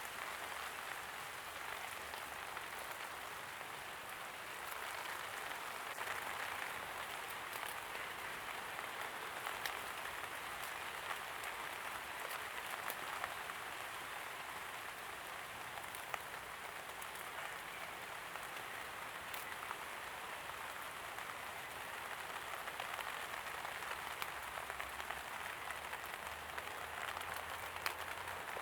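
Steady light rain falling, an even patter with scattered sharper drips.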